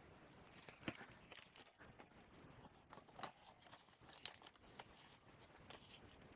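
Faint, scattered rustles and light clicks of trading card packs and cards being handled, the sharpest click about four seconds in.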